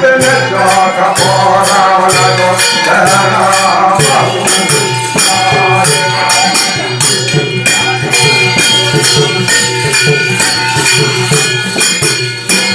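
Devotional jagran music: a voice singing over sustained instrumental tones, with a steady beat of jingling hand percussion.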